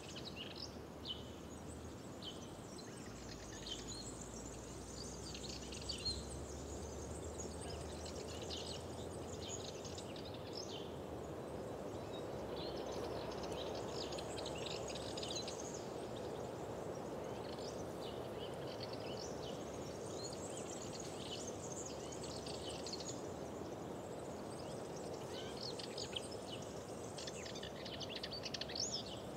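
Wild birds chirping and singing in short, scattered calls throughout, over a steady rushing background that swells slightly midway.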